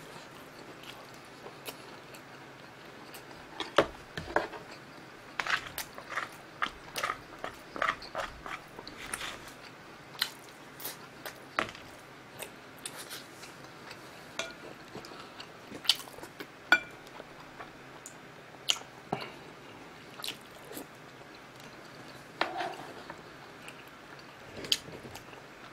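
A person chewing food close to the microphone: wet smacks, bites and small crunches come in irregular bursts, with a few sharper clicks.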